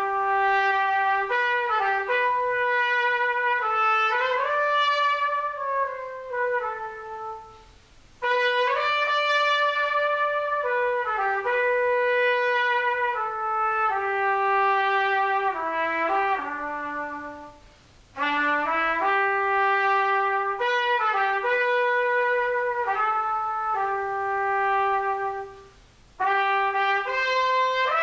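Solo trumpet playing a slow hymn melody in long phrases, with brief breaks for breath about eight seconds in, near eighteen seconds and again near the end.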